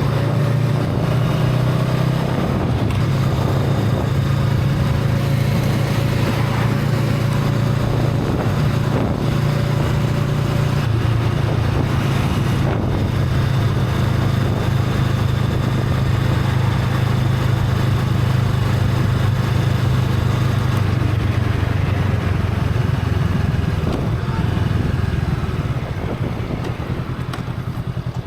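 Honda Rebel 500's parallel-twin engine running through its stock exhaust while riding at a steady pace, easing off with the level dropping slightly near the end.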